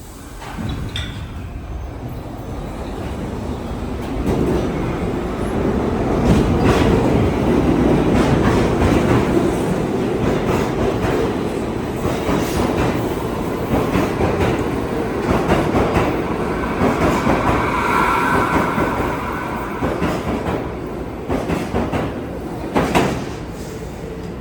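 NYC Subway R62A train running on the tracks, getting louder over the first few seconds and then holding steady. Wheels clack over rail joints throughout, and a brief higher whine comes in about two-thirds of the way through.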